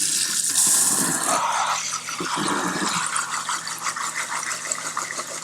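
Water running from a kitchen faucet into the sink.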